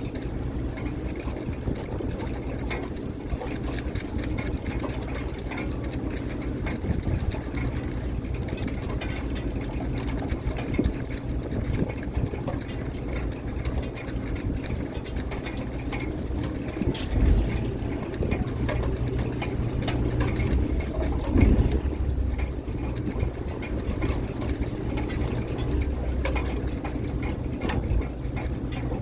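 Fishing boat's engine running steadily, with scattered clicks and knocks and a couple of heavier thumps past the middle.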